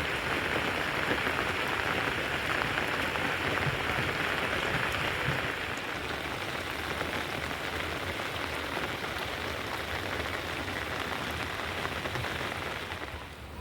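Steady hiss of water, like rain falling on a surface; it eases a little about halfway through and cuts off near the end.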